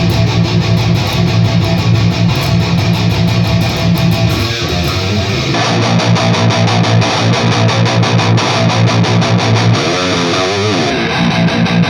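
High-gain distorted electric guitar playing a fast, tightly picked metal riff: an Epiphone Les Paul Custom's EMG 81 bridge pickup through the red channel of an EVH 5150 III 50-watt EL34 amp. The tone changes abruptly about halfway and again near the end, as the recording switches between the miked Mesa 2x12 Rectifier cabinet, the Two Notes Captor X IR of that cab and the room mic.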